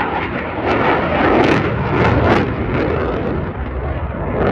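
An aircraft flying over, its engine noise a loud, steady rush that swells and eases.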